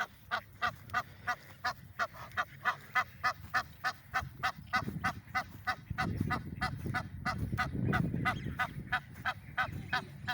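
Birds giving a fast, steady series of short goose-like honking calls, about four to five a second, not very loud. A low rumble swells underneath partway through.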